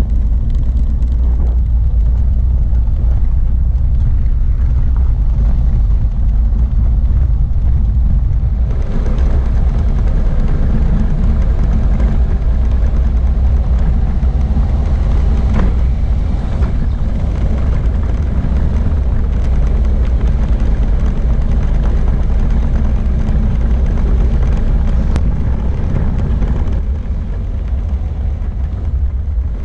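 Steady low rumble of a motor vehicle running. It grows fuller about nine seconds in and eases a little near the end.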